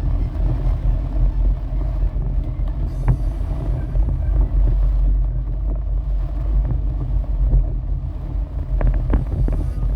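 Storm wind buffeting the microphone in a steady low rumble, with a few faint clicks about three seconds in and near the end.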